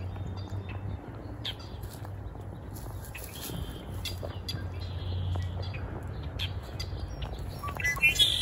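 Small birds chirping and calling in short notes, with a brief trill about midway and a louder burst of calls near the end, over a steady low hum.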